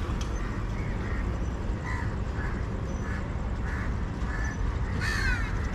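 Birds calling: short harsh calls repeating about twice a second, then one longer call falling in pitch near the end, over a steady low rumble.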